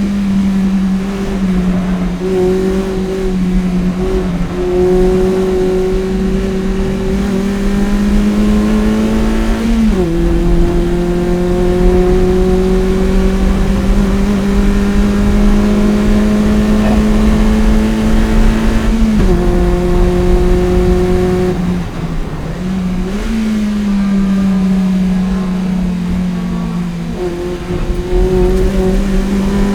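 Toyota MR-S's 1ZZ 1.8-litre four-cylinder engine, breathing through a PPE header and Fujitsubo exhaust, at full throttle on track. Revs climb slowly in long pulls and drop sharply at upshifts about a third and two-thirds of the way through, then jump up and fall away again later before climbing once more.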